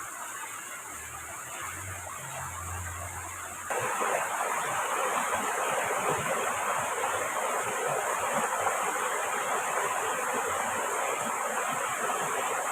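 Steady rushing water noise from heavy rain and river flow. It jumps suddenly louder a little under four seconds in and stays even after that. A faint low hum sits under it during the first few seconds.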